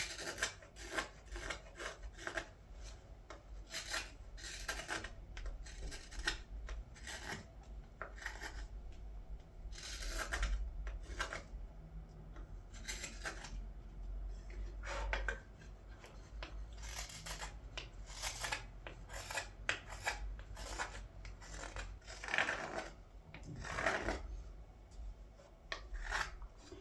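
Hand carving knife paring and scraping green wood in repeated irregular strokes, some short and some drawn out, as the walls of a ladle's bowl are thinned.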